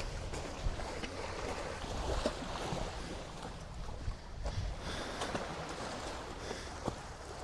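Sea waves washing on the shore with wind rumbling on the microphone, and a few light clicks or knocks scattered through it.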